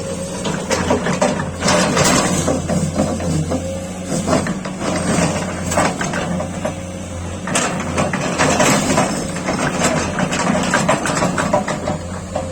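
Excavator diesel engine running steadily, with repeated sharp knocks and clanks from the ripper working.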